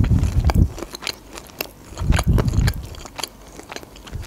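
Close-miked chewing of crunchy chip- and cornflake-breaded chicken strips: sharp crackles and crunches throughout, with two heavier bouts of chewing, one at the start and another about two seconds in.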